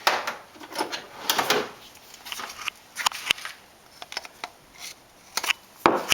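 Plastic housing of a used refrigerator water filter being cut and pried open: irregular scraping and rubbing with sharp clicks and knocks, loudest at the very start and again near the end.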